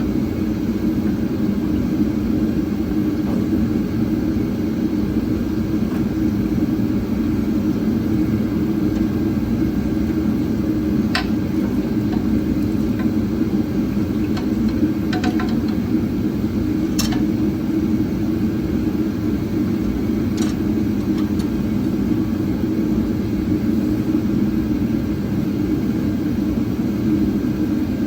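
A steady, loud whirring rumble runs throughout, with a few short, sharp clicks, like tools or parts knocking, scattered through the middle.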